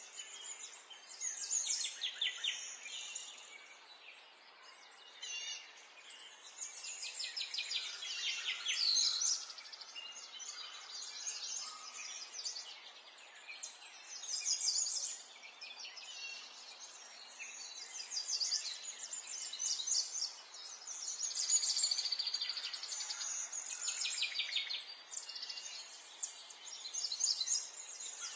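Songbirds singing and chirping, several overlapping trills and rapid chirp series coming and going over a faint steady background hiss.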